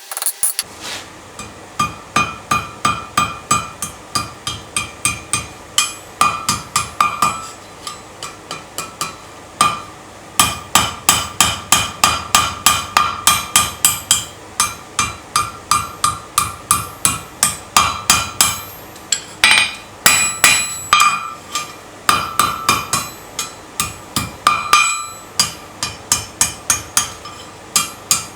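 Hammer blows on metal on an anvil while forging, about three strikes a second in runs with short pauses, each blow leaving a short metallic ring.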